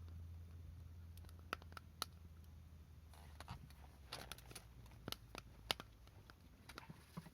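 Wood fire crackling, with faint, irregular pops and snaps from the burning firewood.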